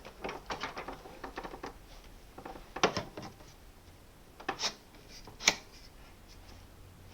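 Hard plastic parts of a Hoover upright vacuum's handle clicking and rattling as the handle is worked onto the body: a quick run of small clicks in the first couple of seconds, then a few sharp single clicks, the loudest about five and a half seconds in.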